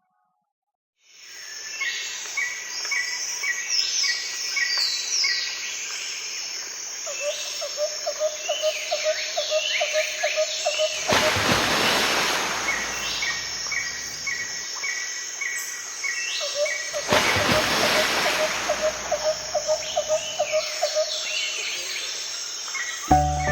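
Outdoor ambience of several birds chirping and calling, with a rapid pulsing trill and two rushing swells of noise in the middle, each about two seconds long.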